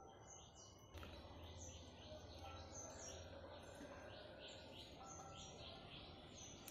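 Birds chirping faintly, a quick run of short high notes about three or four a second, over faint outdoor background noise.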